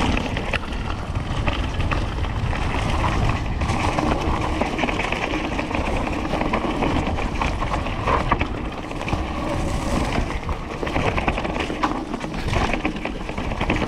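Electric mountain bike with a Shimano E8000 motor coasting down a rough trail: tyres rolling over the ground and a steady clicking rattle from the bike, which the rider thinks is probably not from the motor.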